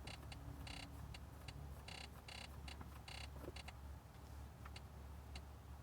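Irregular soft ticks and clicks from the car's infotainment controls as its settings menus are scrolled through, over a low steady hum in the cabin.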